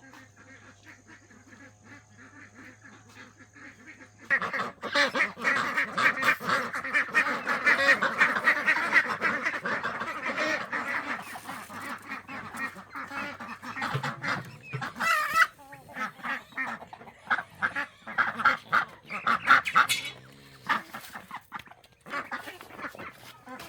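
A flock of domestic waterfowl calling all at once, a dense overlapping clamour of honks and quacks that breaks out about four seconds in and surges and eases for the rest of the time. Before it there is only a faint steady hum.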